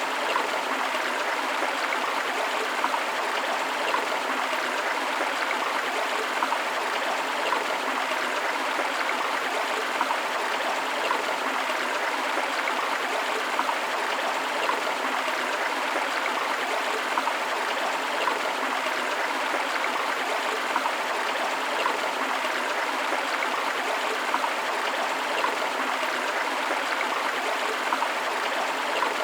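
Forest river water flowing over rocks in a steady rush, with small splashes throughout.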